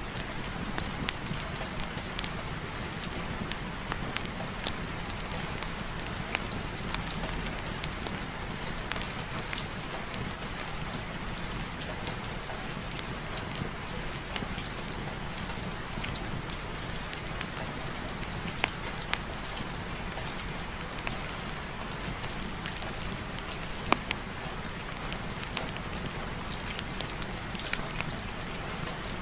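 Steady rain falling on a surface, with scattered sharp ticks and pops through the steady hiss.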